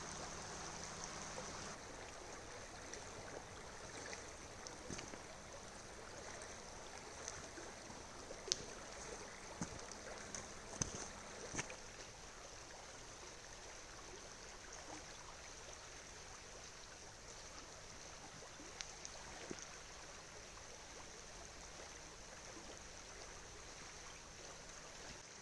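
River water running steadily, with a few short, light clicks about a third of the way in.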